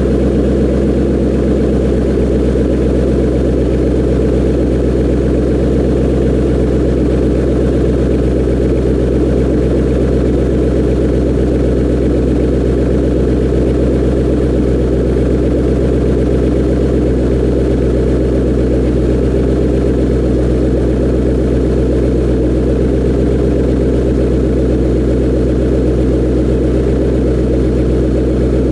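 2007 Shelby GT's 4.6-litre V8 idling steadily through Ford Racing GT500KR axle-back mufflers on stock manifolds and pipe, warming up after a cold start.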